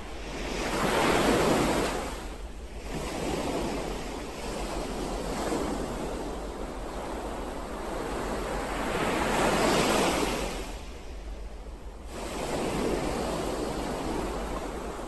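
Ocean waves washing in: the surf swells and ebbs, with two big waves breaking about a second in and about ten seconds in, each followed by a short lull, and a smaller wave near the end.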